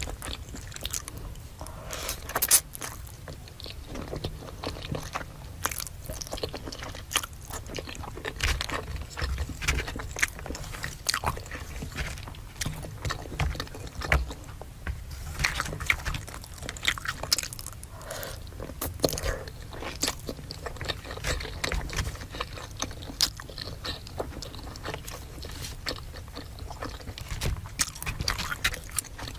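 Close-miked eating of a fried chicken, spaghetti and fries meal: bites and chewing with crunching and many irregular wet mouth clicks.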